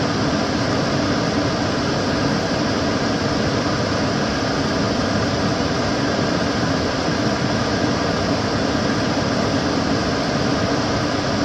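Kitchen cooker hood extractor fan running steadily: an even rush of air with a low hum beneath it.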